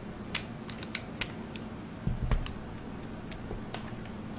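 Small objects being handled on a crafting table: light, irregular clicks and taps, with one duller knock a little past two seconds in.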